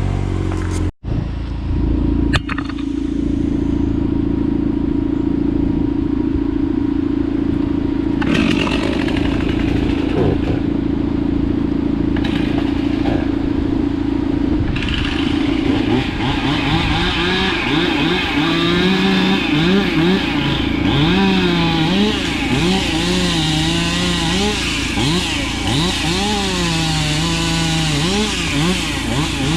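Chainsaw running at full throttle, steady at first, then cutting through a storm-felled tree, its pitch repeatedly dipping under load and recovering.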